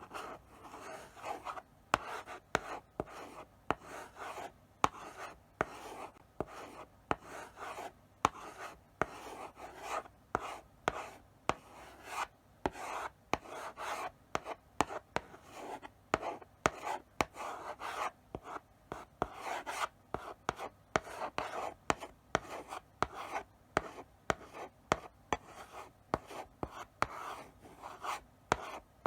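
Chalk writing slowly on a blackboard: a run of short scratchy strokes, each starting with a sharp tap of the chalk against the board, with brief pauses between them.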